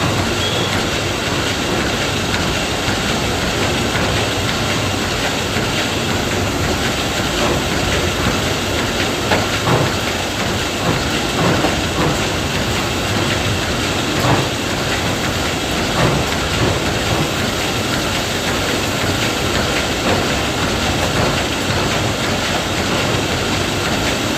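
Combine harvester running while it cuts and threshes paddy, a loud steady mechanical clatter with a few faint knocks.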